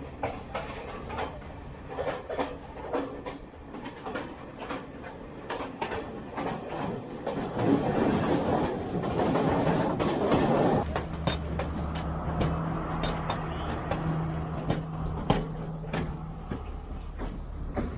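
Passenger train running on the rails, with rapid wheel clicks and clatter. A steady low hum sets in about eleven seconds in.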